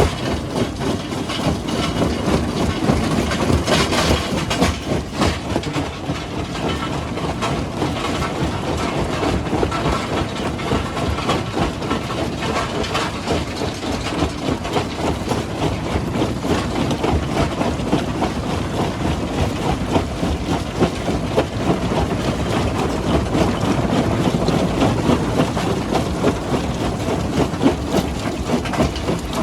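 Heavy rock-crushing machinery running, with a steady mechanical din and a continuous dense clatter of rocks knocking and rattling.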